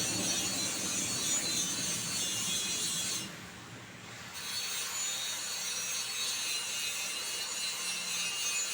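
Steady abrasive scraping, like sanding or filing by hand, with a pause of about a second roughly three seconds in.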